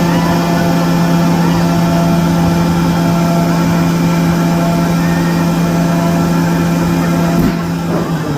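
Steady mechanical hum of roller coaster machinery: one low droning tone with overtones. Near the end there is a click, then the hum drops in pitch and gets a little quieter.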